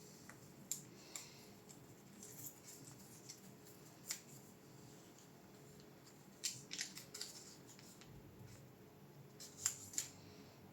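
Faint, sparse light clicks and small scrapes of hand tools and small parts being handled, about ten at irregular moments, some in quick clusters, over a low steady hum.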